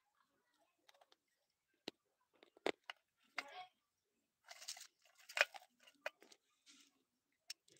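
Close-up crunching and chewing of small hard bites. There are a few sharp, separate crunches in the first three seconds, then a denser run of crunching about halfway through, and a last crisp bite near the end.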